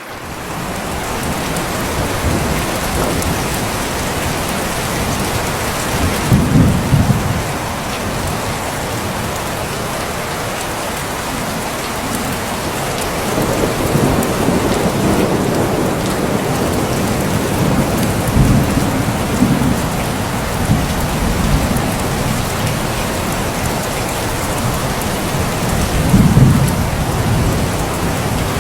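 Steady rain falling, with thunder rumbling low several times: first about six seconds in, again around the middle, and once more near the end.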